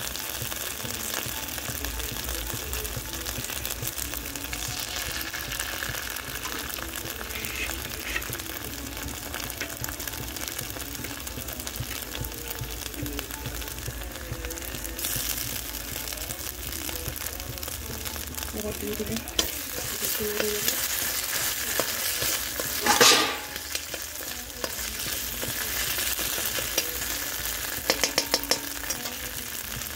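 Spice paste sizzling steadily as it fries in oil in a wide wok, stirred and scraped with a metal spatula. There is one louder burst about three quarters of the way through, and a few quick spatula taps near the end.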